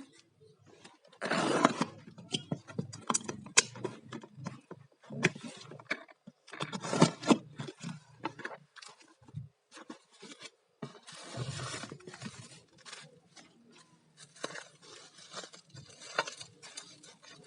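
Packaging being handled and opened by hand: irregular rustling and scraping, broken up by many sharp clicks.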